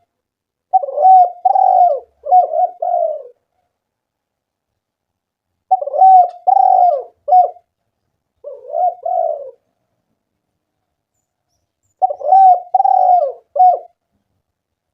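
Spotted dove (tekukur) cooing in three phrases of several coos each, separated by pauses of a few seconds.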